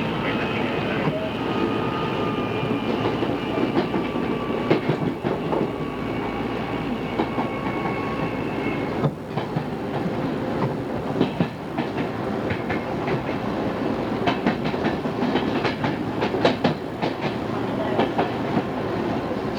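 Odakyu 2600 series electric train running, its wheels clicking over rail joints, with a whine that falls slowly over the first half. Heard on an old cassette-tape recording.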